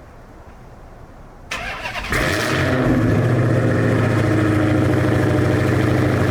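A car engine being started: the starter cranks for about half a second from about a second and a half in, the engine catches and settles into a steady idle.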